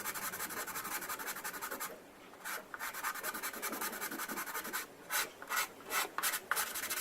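Hand sanding of a plastic scale-model airframe over green putty and surfacer, abrasive rubbed back and forth in quick strokes. It pauses briefly about two seconds in, then resumes as slower, separate strokes.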